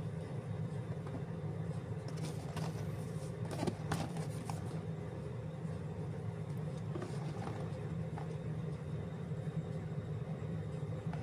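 Steady low background hum, with a few faint clicks and taps about two to five seconds in and again a little past halfway.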